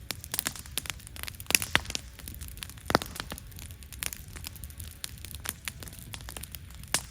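Wood fire crackling, with irregular sharp pops, a louder one about three seconds in, over a low steady rumble.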